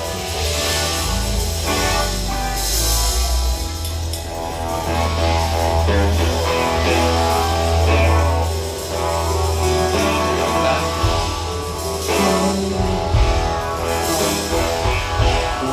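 Live rock band playing an instrumental passage: electric guitars sounding held and picked notes over a sustained low bass.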